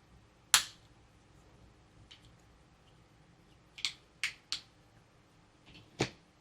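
Sharp clicks and taps from toys and packaging being handled: a loud one about half a second in, three in quick succession around four seconds, and another near the end.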